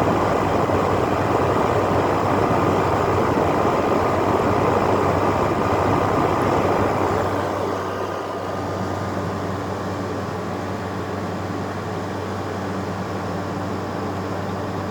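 LG air conditioner running: a steady whoosh of fan airflow over a low, steady hum. About seven and a half seconds in the whoosh drops a little, then carries on steadily.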